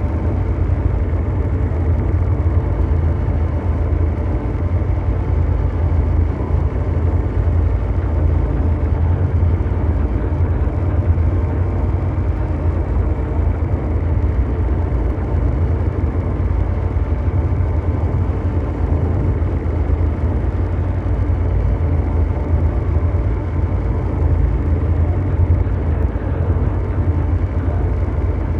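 Continuous ambient mechanical drone noise: a steady, unchanging rumble, strongest in the deep bass, with a grainy hum above it and almost nothing high.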